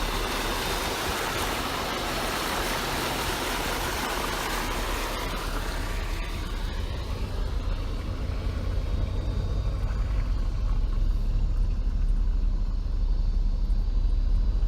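Motor vehicle driving: a steady low rumble under a hiss that fades out about six seconds in, the rumble growing louder toward the end.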